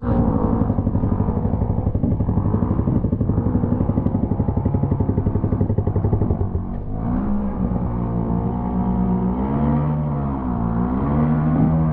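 Off-road motorcycle engine running, chugging at low revs for about the first six seconds, then revving up and down several times.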